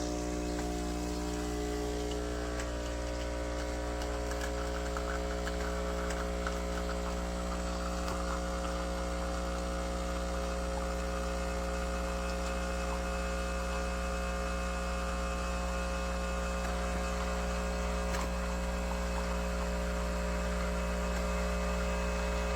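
Vibratory pump of a CASABREWS 20-bar espresso machine humming steadily while it pulls a shot, with a faint crackle of coffee running into the cup. The hum stops abruptly at the very end.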